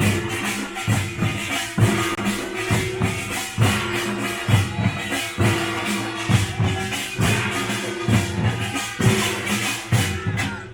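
Korean pungmul folk percussion band playing: drums beat heavy strokes about once a second under the dense, clanging rattle of small brass gongs, with a held tone sounding through.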